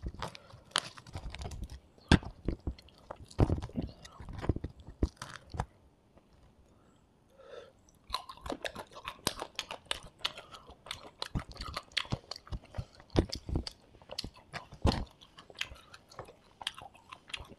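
Close-miked chewing of hand-eaten fried rice and curry, with wet smacks and light crunches. It pauses about six seconds in, then starts again with a fresh mouthful, busier than before.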